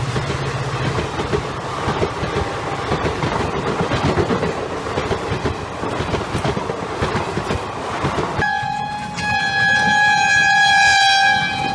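A steady rattling clatter. About eight seconds in it switches abruptly to a long, steady horn blast with several overtones, like a train horn.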